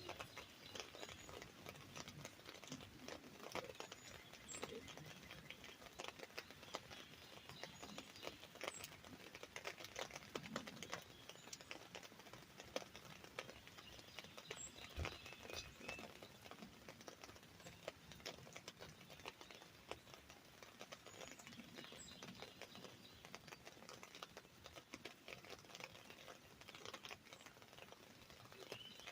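Rain pattering on an umbrella: a faint, dense, irregular stream of small drop taps.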